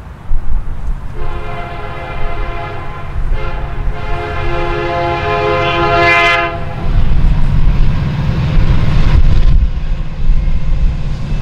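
Locomotive air horn sounding two blasts, a shorter one and then a longer one. The horn cuts off about seven seconds in and gives way to the heavy rumble of the train passing on the track.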